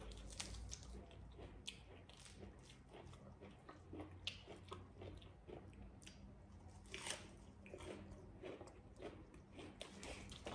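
A person biting and chewing crisp lettuce leaves, close up: an irregular run of soft crunches and wet mouth clicks.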